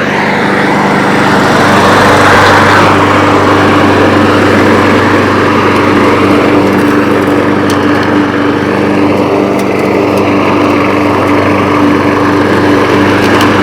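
Briggs & Stratton 675 Series 190 cc engine of a 22-inch Brute front-wheel-drive mower running steadily at cutting speed, the blade chopping and sucking up small tree debris from the lawn. It gets a little louder over the first two seconds.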